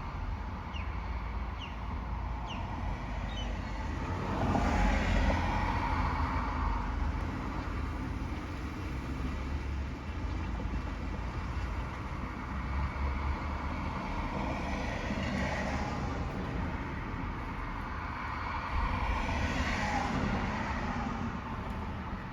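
Road traffic with trucks: a steady low engine rumble, with vehicles passing that swell and fade about three times, the loudest a few seconds in.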